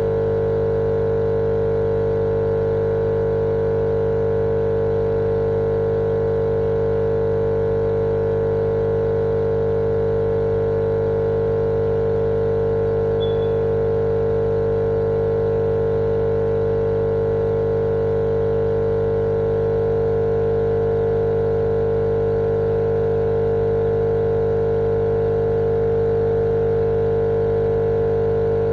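Steady, unchanging machine-like drone with one strong humming tone in the middle range, played as continuous sleep noise for babies.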